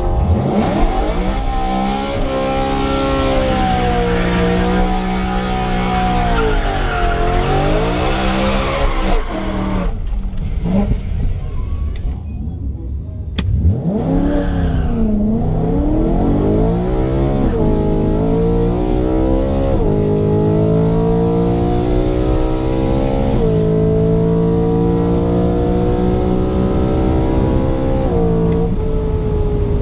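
Car engine heard from inside the cabin on a drag-strip run: revs swinging up and down, a short lull, then hard acceleration with the pitch climbing steadily and dropping at each upshift.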